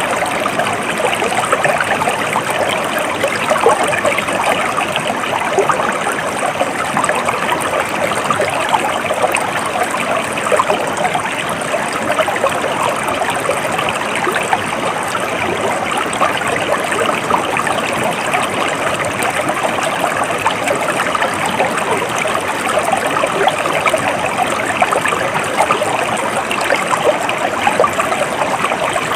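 Steady, unbroken flow of a stream of water, a constant rushing and trickling.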